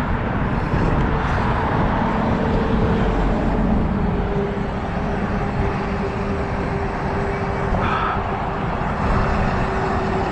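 Road traffic crossing the bridge overhead: a steady rumble with a faint even hum of tyres that holds through the second half.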